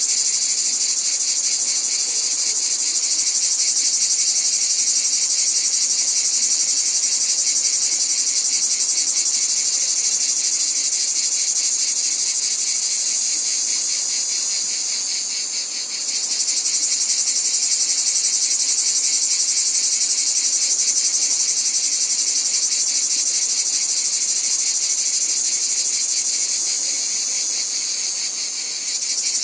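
A dense, steady chorus of insects such as crickets, a fast high-pitched pulsing trill with no pauses. It dips briefly and jumps straight back twice, about halfway through and near the end.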